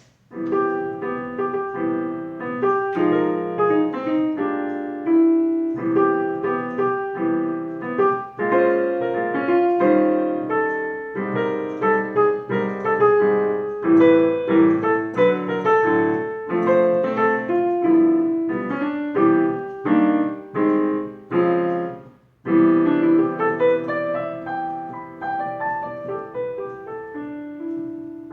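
Piano playing a melody over chords, notes struck and decaying one after another; it stops briefly about 22 seconds in, then carries on more softly towards the end.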